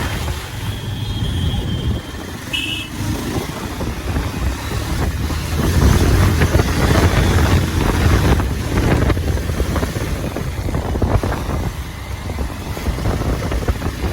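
Motorcycle running on the road, its engine note rising and falling with the riding, mixed with wind noise on the microphone. A short high beep sounds about two and a half seconds in.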